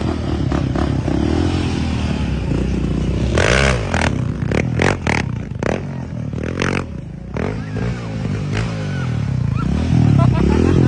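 ATV engine revving, its pitch rising and falling, with a run of sharp clattering knocks in the middle.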